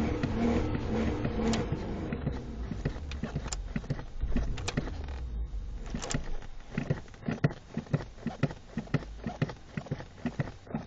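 Ford Explorer engine running with a steady pitch for about two seconds, then dying away. From about six seconds in come regular sharp footsteps, about two a second, of boots on a hard surface.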